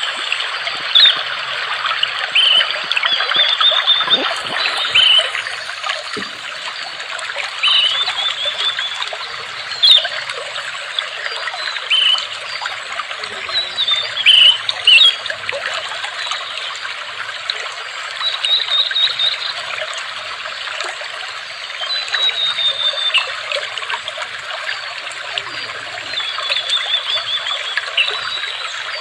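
Water trickling steadily, with small birds chirping and trilling in short high phrases every few seconds.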